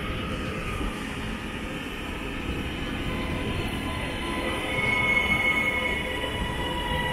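Northern passenger multiple-unit train moving through a station platform: a steady rumble of the train running on the rails, with a high, steady squeal that grows louder about halfway through.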